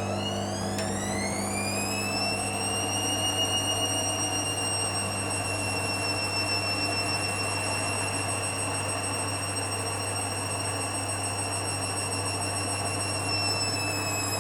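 Hoover Dynamic Next washer-dryer spinning: the drum motor's whine rises over the first couple of seconds, then holds steady at a low spin of about 400 rpm, easing down slightly near the end.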